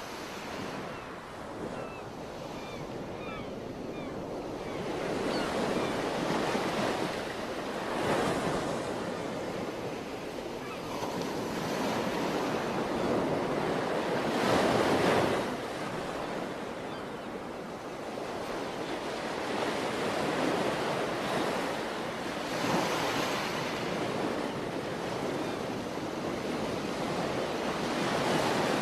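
Sea waves breaking and washing ashore, swelling into louder surges every several seconds, with wind buffeting the microphone.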